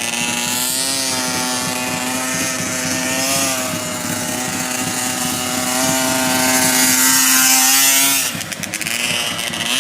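Small dirt-bike engine running at a fairly steady pitch with slight rises and falls in revs. About eight seconds in the engine note drops away and a brief clatter of knocks follows.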